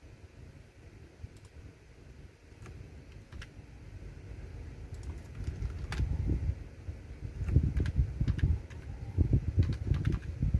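Typing on a computer keyboard: sparse, irregular key clicks at first, growing denser and louder in the second half, with low thuds under the clicks.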